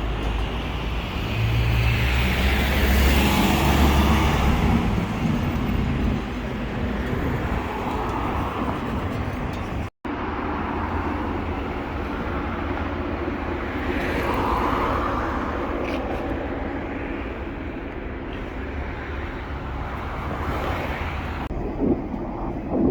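Road traffic: a steady rumble of cars passing, with vehicles swelling louder about three seconds in and again about fifteen seconds in.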